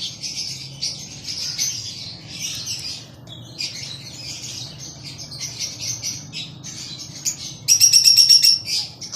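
A flock of aviary lovebirds chattering with constant overlapping high chirps and squeaks. Near the end, a louder rapid trill of quick repeated notes lasts about a second.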